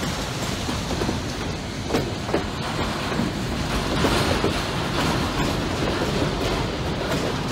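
Freight train of bi-level autorack cars rolling past close by: a steady rumble of wheels on rail with scattered sharp clicks.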